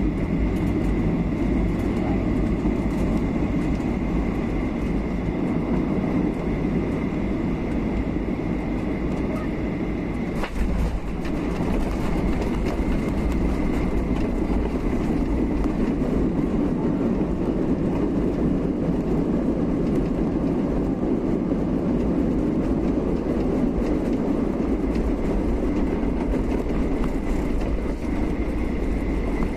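Cabin noise of a Boeing 737-800 around landing: a steady rumble of its CFM56-7B engines and airflow with a thin steady whine, and a short knock about ten seconds in.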